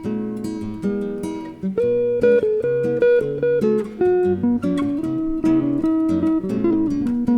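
Jazz guitar duo of a nylon-string flamenco guitar and a Telecaster electric guitar: a picked melody line over chords and low bass notes.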